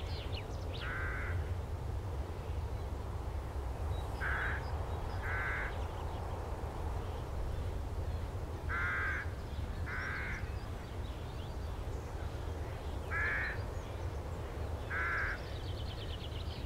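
A bird calling with short, repeated calls, seven in all, mostly in pairs about a second apart, every few seconds. A steady low hum runs underneath.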